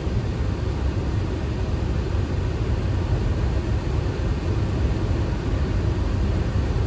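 Steady flight-deck noise of a Boeing 737 on short final: a low, even rumble of airflow and engines.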